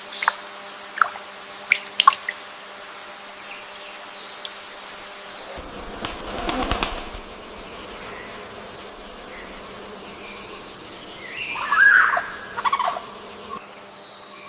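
Bird sounds: a few short, sharp chirps in the first couple of seconds, a burst of wing flapping about six seconds in, and a louder cluster of calls a couple of seconds before the end.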